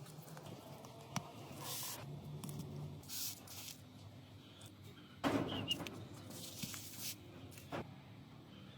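Small handling and work noises: short hissing bursts, a few sharp clicks and a louder scraping rustle a little past the middle.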